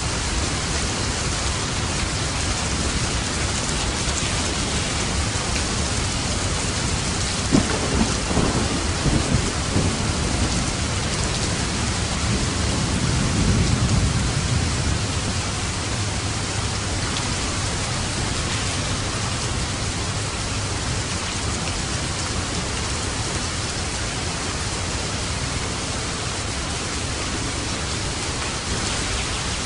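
Steady heavy rain falling, with a thunderclap about eight seconds in: a few sharp cracks followed by a low rolling rumble that peaks around fourteen seconds in and fades back into the rain.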